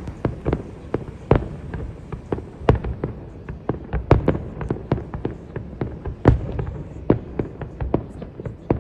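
Fireworks display exploding: a dense, irregular string of bangs and pops, several a second, over a steady low rumble.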